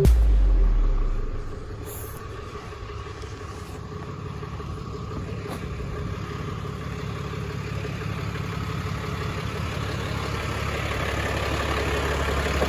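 Motor vehicle engine idling, growing gradually louder, with a loud low rumble in the first second and a half.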